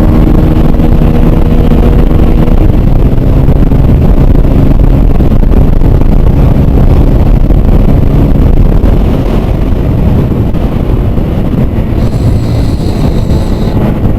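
Hero Super Splendor BS6 125 cc single-cylinder engine running hard during a top-speed run, under a heavy rush of wind on the microphone. The loudness eases slightly about nine seconds in.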